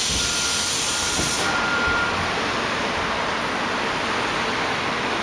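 Truck air brakes releasing with a loud hiss that cuts off about a second and a half in, with a faint thin whine, over steady street traffic noise.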